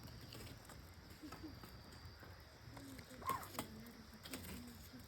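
Campfire crackling faintly, with scattered small pops and one sharper pop a little past the middle, under a faint murmur of distant voices.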